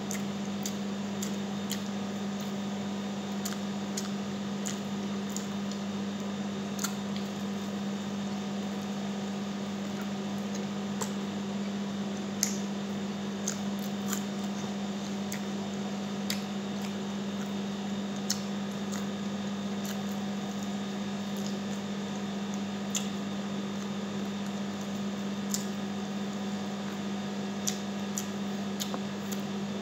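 Close-up eating sounds of a person chewing garlic honey butter chicken by hand: scattered short smacks and clicks every second or two, over a steady low hum.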